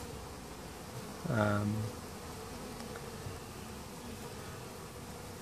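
Honeybee colony in an open hive buzzing with a steady hum. A short voice sound comes through about a second and a half in.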